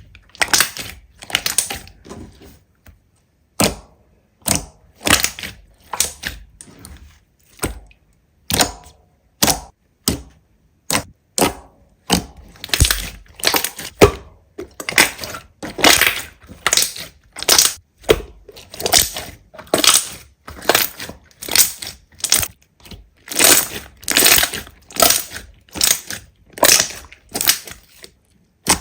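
Slime being pressed and squeezed by hand over and over, each press giving a short burst of crackling and popping, roughly one a second.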